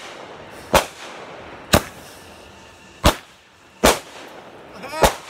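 Consumer fireworks going off after being lit: five sharp bangs, roughly a second apart.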